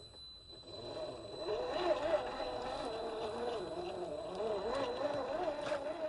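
Electric motor and geared drivetrain of a 1/10-scale RC4WD Gelände 2 scale crawler whining as it crawls over dirt, the pitch wavering up and down with the throttle, with a few light ticks from the tyres on the ground.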